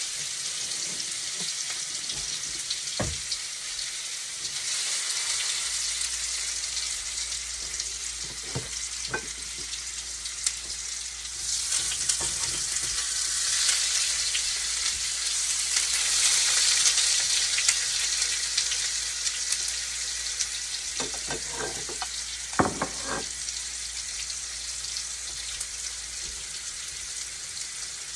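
Tofu frying in hot oil in a pan: a steady sizzle that swells louder around the middle, with a few sharp clicks and taps, mostly near the end.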